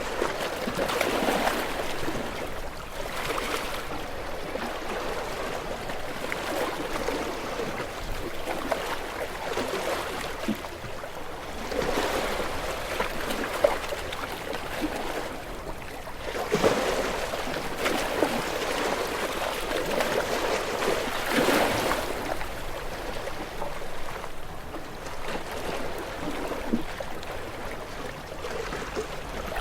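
Small waves washing onto a shore, each wash swelling and fading every few seconds, with trickling and fizzing as the water runs back.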